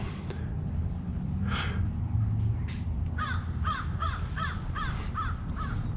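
A bird calling in a quick run of about eight short, evenly spaced calls, starting about three seconds in, over a low steady background rumble.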